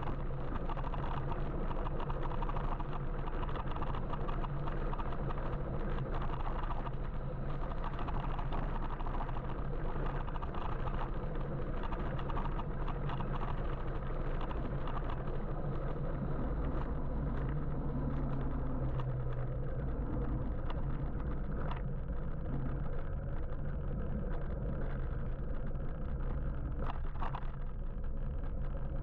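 Steady road and wind noise from riding an electric motorbike in city traffic, with a low steady hum underneath and other vehicles around.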